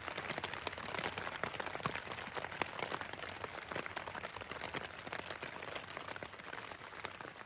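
Rain falling steadily on the hammock shelter, a dense run of small irregular drop taps over a soft hiss.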